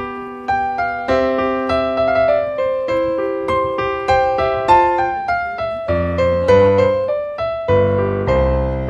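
Background music: a piano playing a gentle melody of single notes, with lower bass notes coming in about six seconds in.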